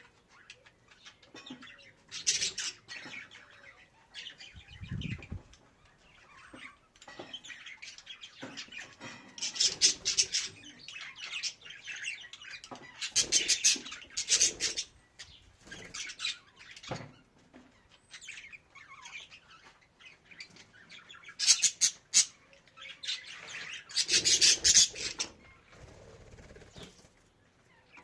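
Budgerigar chirping and warbling in bursts a few seconds apart, with quieter chatter in between.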